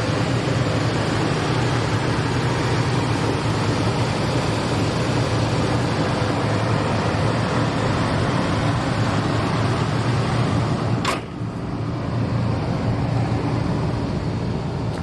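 2002 Toyota Tundra's 3.4-litre V6, with about 300,000 miles on it, idling steadily with the hood up. About eleven seconds in there is a short sharp click, after which the running sound is a little quieter.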